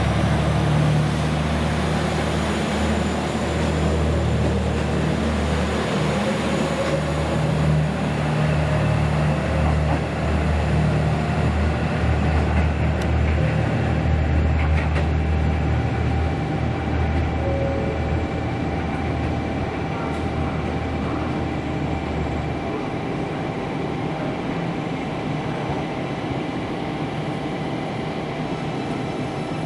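Train at a station platform, running with a loud steady low hum and a faint whine rising in pitch over the first few seconds; the low hum drops away about two-thirds of the way through.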